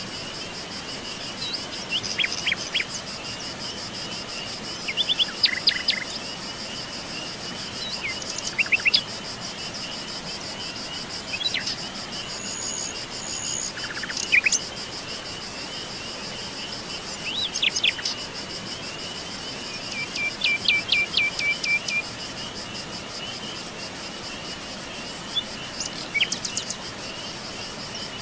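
Birds calling and singing in scattered short bursts of sharp notes and trills, over a steady high chorus of crickets or other insects. About twenty seconds in, one bird gives a run of evenly repeated notes.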